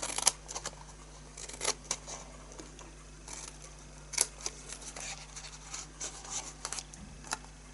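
Scissors snipping cardstock in a string of short, irregular snips, cutting slits and notches along the score lines of a box base.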